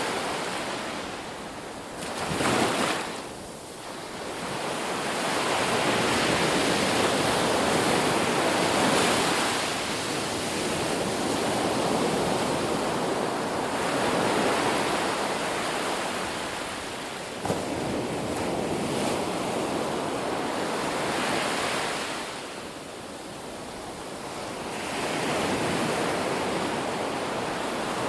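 Ocean waves breaking and washing in, swelling and easing off in a slow, uneven rhythm several times over.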